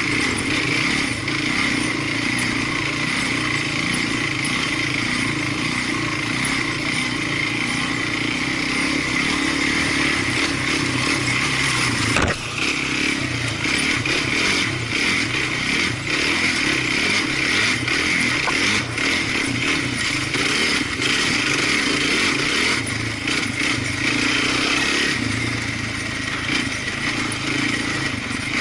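Off-road vehicle engine running steadily while riding a trail, with one sharp knock about twelve seconds in.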